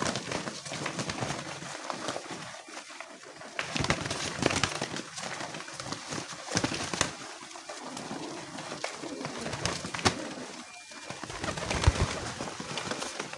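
A flock of homing pigeons cooing while they jostle over corn at feeding time, with many short clicks and knocks among the calls.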